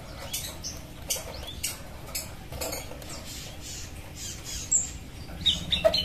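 Small wild-caught birds giving short, high squeaky chirps amid scattered light clicks and rustles as they are handled for release, with a few quick chirps near the end.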